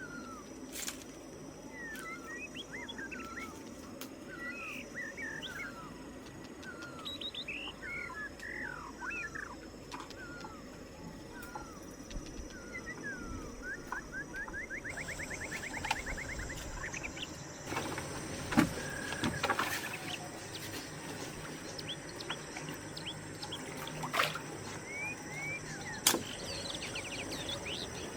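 Small birds chirping and calling over and over, with one quick rapid trill about halfway through and a steady high insect drone underneath. A few sharp knocks come in the second half.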